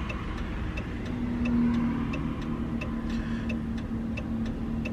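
Car cabin road noise with a turn-signal indicator ticking steadily, about one and a half ticks a second. A steady low hum comes in about a second in.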